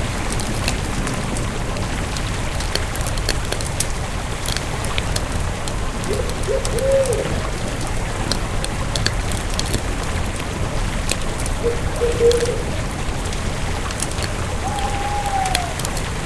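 Wood campfire crackling, with frequent sharp pops and snaps over a steady hiss. A bird calls briefly a few times: a short run of notes about six seconds in, another near twelve seconds, and a slurred call near the end.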